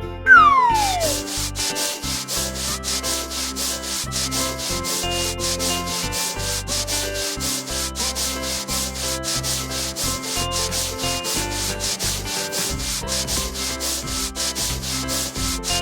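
Cartoon scrubbing sound effect, fast, even brush strokes repeating steadily, over a light background music tune. A quick falling whistle-like glide comes just at the start.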